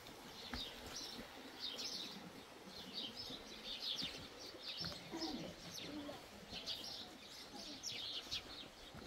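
Small birds chirping: many short, high calls repeated quickly throughout.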